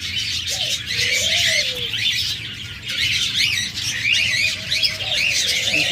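Many caged pet birds chirping and chattering together, a dense run of quick high calls, with a lower gliding note about a second in.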